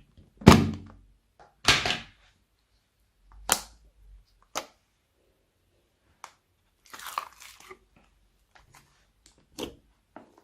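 Slime being squished and pressed by hand, making short separate crackly squelches with pauses between them. The loudest come in the first two seconds, with a quicker cluster about seven seconds in.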